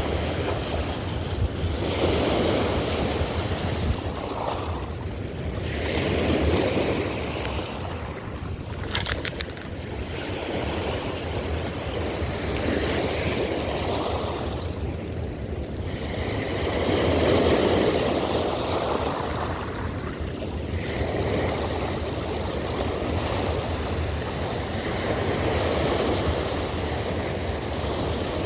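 Rough, fast river water rushing below a dam that is releasing water: a steady noise that swells every few seconds, with wind buffeting the microphone. About nine seconds in there is a short run of quick, faint clicks.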